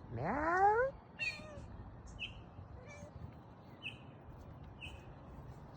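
A kitten meowing: one long call rising in pitch, then a shorter, higher call. After that come a few faint, short, high sounds about a second apart.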